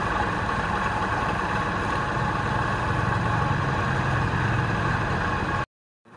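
A machine motor running steadily, with a dense even hum. It cuts out completely for a moment near the end, then comes back.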